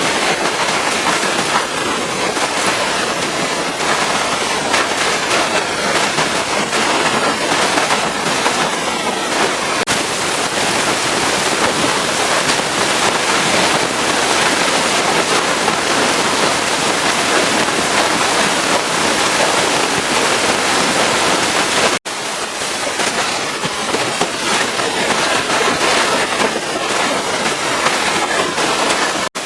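Pressure washer's high-pressure water jet spraying against a truck's surfaces: a loud, steady hiss with spattering. It cuts off for an instant about 22 seconds in.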